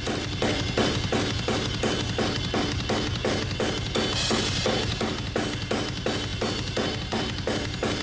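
Recorded drum kit heard through its room microphones, played back heavily compressed: kick, snare and cymbals in a busy, steady beat of about five hits a second, the room sound squashed and aggressive, which the producer calls pretty rude.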